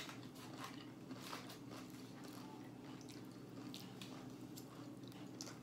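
Faint, close-up chewing and lip-smacking of a person eating a burrito: a steady run of small, wet mouth clicks.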